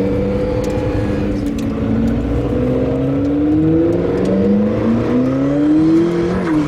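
McLaren P1's twin-turbo V8 accelerating, heard from inside the cabin. The engine note climbs steadily, then drops suddenly near the end as the revs fall, as at a gear change or a lift off the throttle.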